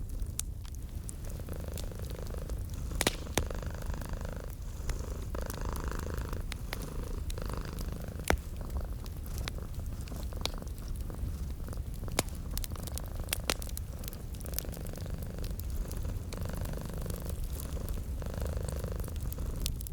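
A domestic cat purring steadily with a low, continuous rumble, layered over a wood fire crackling. The fire gives scattered sharp pops, a few standing out louder than the rest.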